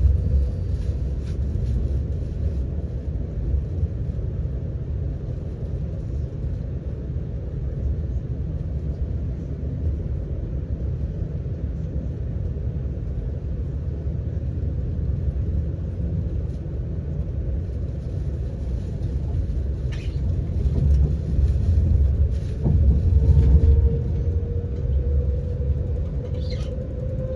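Steady low rumble of an Avanti West Coast Class 390 Pendolino electric train running along the line, heard on board, with a few short knocks. Near the end a faint whine rises slowly in pitch as the train picks up speed.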